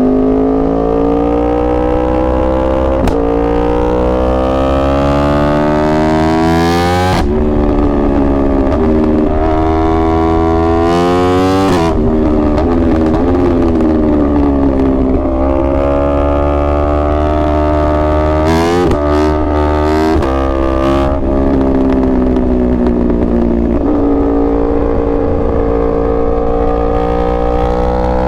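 2021 Yamaha R1's crossplane inline-four accelerating hard through the gears: the engine note climbs and drops sharply at upshifts about seven and twelve seconds in. It then falls away, climbs again, breaks off several times in quick succession around twenty seconds in, falls, and rises once more near the end.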